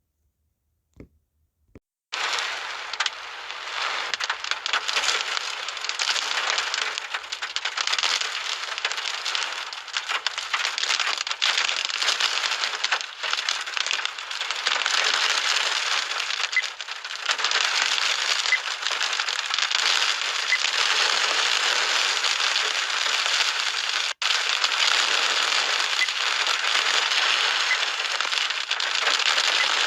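Storm winds: a dense crackling hiss that swells and eases in gusts. It starts abruptly about two seconds in and cuts out for a moment about three-quarters of the way through.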